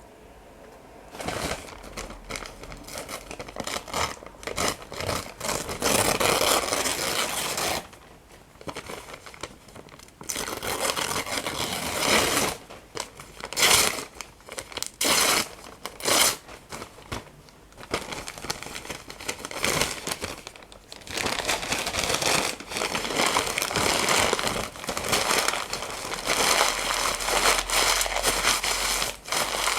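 Paper being crumpled and torn close to the microphone, in long stretches of dense crackling broken by short pauses.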